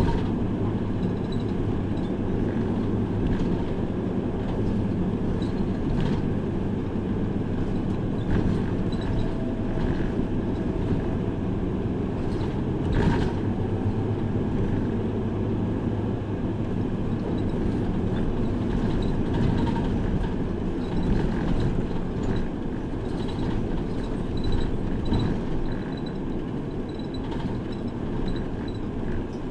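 City bus under way, heard from inside the passenger cabin: steady engine hum and road noise, with scattered short rattles and clicks.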